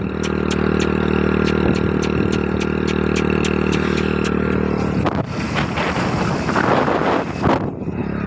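Motorcycle engine running at a steady speed, with a fast, even ticking over it. About two-thirds of the way in, a loud rushing noise covers it for a couple of seconds.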